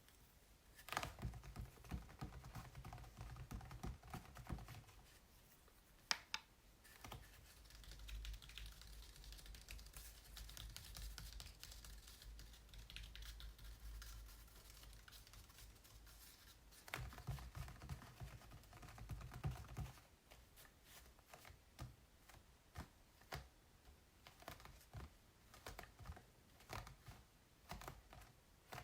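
Fingers tapping and tracing on acrylic paintings, faint and close: clusters of quick light taps, with a stretch of soft scratchy rubbing in the middle and scattered single taps near the end.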